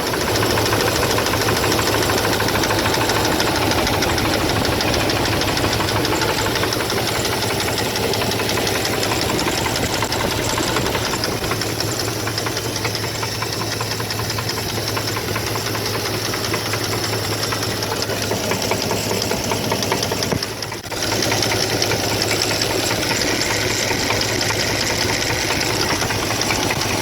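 2002 Dodge Ram 1500's 4.7-litre V8 engine running steadily with a fast, even knock, whose cause the owner does not know. The sound drops out briefly about twenty seconds in.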